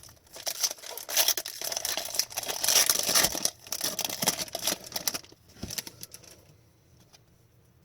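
Hockey card pack wrapper being torn open and crinkled by hand, with dense rustling that stops about five seconds in.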